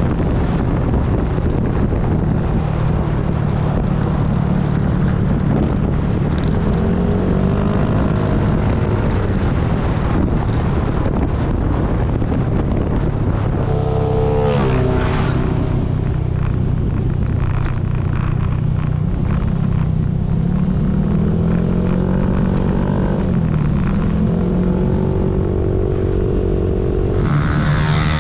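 Yamaha 155 cc single-cylinder scooter with an aftermarket exhaust pipe, running on the road, its engine note rising and falling with the throttle. There is a brief higher surge about halfway through.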